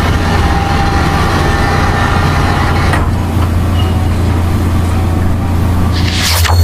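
Steady mechanical vehicle rumble with a strong low hum, changing texture about halfway through, and a short rising whoosh near the end.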